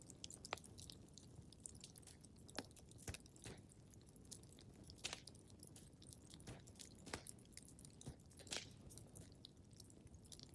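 Wood fire crackling in a fireplace: irregular sharp pops and snaps, a few louder ones, over a soft low rumble of the flames.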